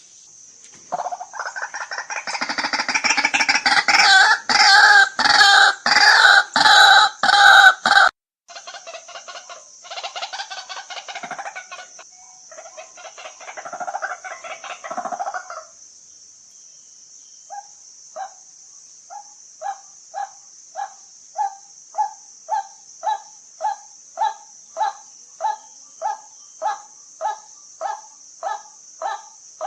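White-breasted waterhen calling: a loud run of rapid, harsh repeated croaks, then quieter chattering, settling about halfway into a steady series of single 'kwak' notes a little over one a second. A steady high insect-like hiss runs underneath.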